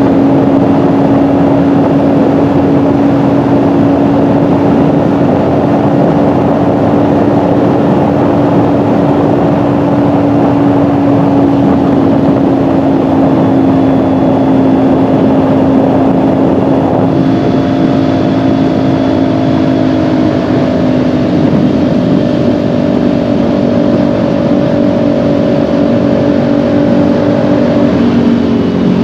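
Kawasaki Ninja 400's parallel-twin engine running at a steady cruise, with wind rush and road noise. A little past halfway through the engine note shifts and the wind noise eases, and near the end the pitch falls as the bike slows.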